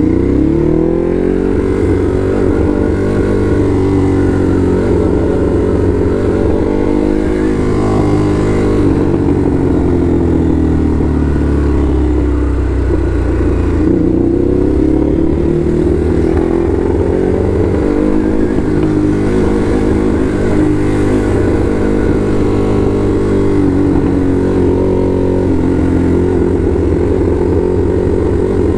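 Ducati Hypermotard SP's L-twin engine under way, its pitch climbing and dropping again and again as the rider accelerates and eases off between gears, over steady wind and road noise.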